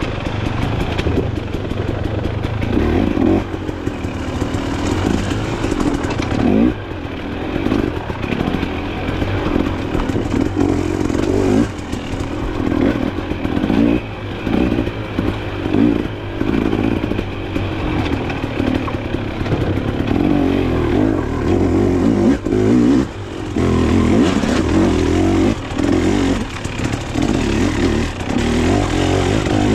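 Off-road dirt bike engine running hard while riding, the revs rising and falling with the throttle and dropping off briefly a few times.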